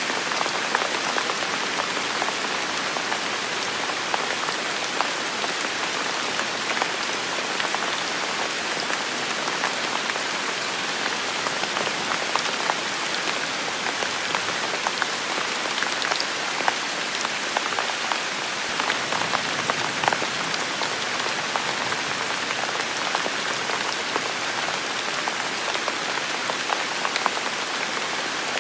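Heavy rain falling steadily, a dense hiss of rain with many individual drops pattering on surfaces.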